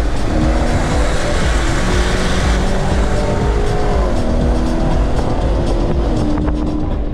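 Car engine at full throttle in a street race, revs climbing steadily, dropping at an upshift about four seconds in, then climbing again, over loud road and wind rumble.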